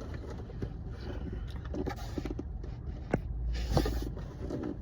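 Takeout food packaging being handled and closed: scraping and rustling with a couple of sharp clicks, over a low steady rumble.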